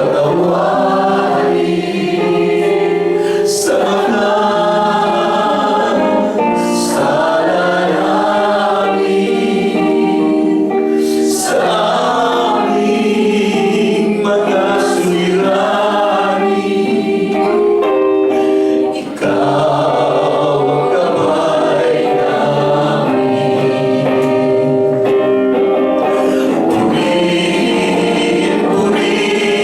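A group of voices singing a worship song, with sustained sung notes.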